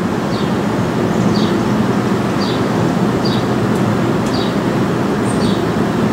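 NJ Transit MultiLevel double-deck passenger train rolling past on the tracks with a steady rumble of wheels on rail. A short high chirp repeats about once a second over the rumble.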